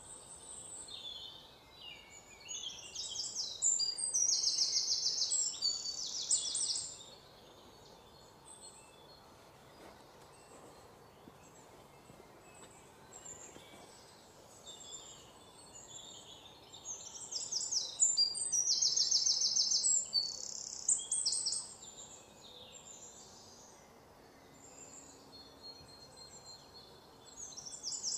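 Songbirds singing: quick trilled and chirping phrases, loud for a few seconds twice, with quieter calls in between over faint background noise.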